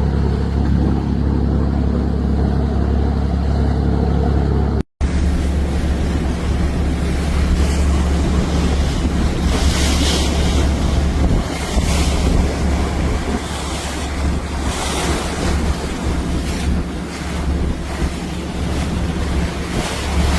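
Boat engine running steadily under a loud rush of sea water and wind, with wind buffeting the microphone and the rushing swelling now and then. The sound drops out for an instant about five seconds in.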